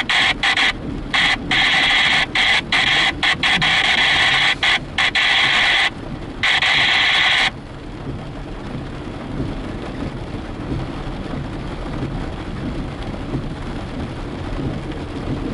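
Scanner radio static hissing and cutting on and off in a choppy way for about seven and a half seconds, then stopping. After that, a steady low rumble of rain on the car.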